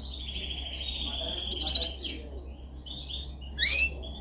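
Domestic canary singing a training song: a long rolling trill, then a louder burst of rapid, higher notes about a second and a half in, and rising sweeping notes near the end. A steady low hum runs underneath.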